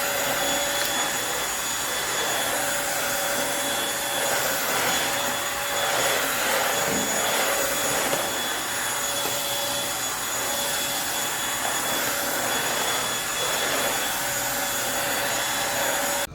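Eureka Blaze stick vacuum running at a steady pitch while vacuuming, its motor rush carrying a steady whine. It cuts off suddenly at the end.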